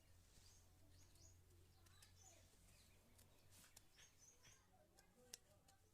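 Near silence: faint bird chirps in the background over a low steady hum, with a single sharp click about five seconds in.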